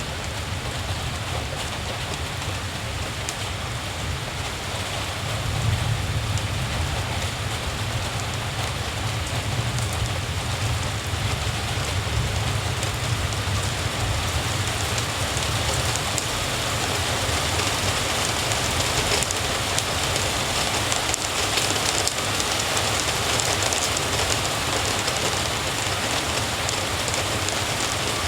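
Steady rain falling, with a low rumble underneath that grows a little louder about five seconds in.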